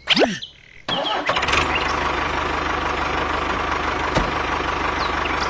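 Mini diesel engine starting about a second in and then running steadily with an even, rapid beat, after a brief gliding sound at the very start.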